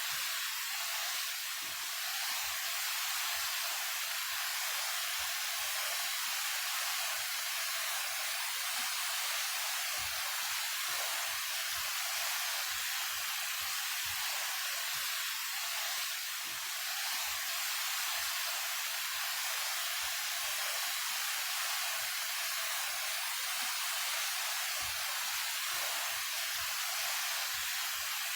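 Daehye Falls, a 28 m mountain waterfall, pouring steadily: a continuous rushing hiss of falling water with little low rumble.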